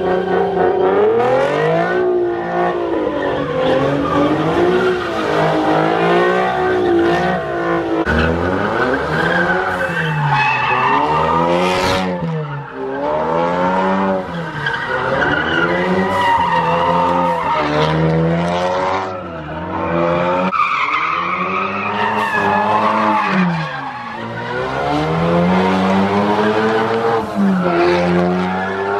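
A car engine revving up and down again and again, roughly every couple of seconds, with tyres squealing and skidding under wheelspin, as in sideshow donuts or a burnout.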